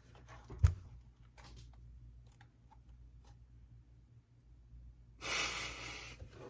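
A short knock about half a second in and a few faint clicks, then a breathy exhale lasting about a second near the end.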